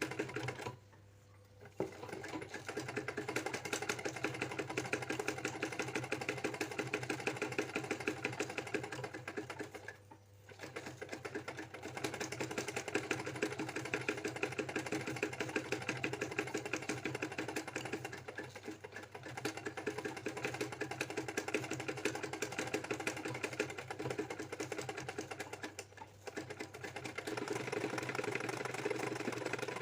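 Domestic sewing machine stitching at speed, a fast steady mechanical rhythm that stops for a moment three times.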